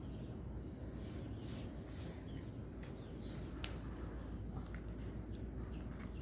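Low steady background hum with a few faint, short high chirps scattered through it, like small birds, and one sharp click about three and a half seconds in.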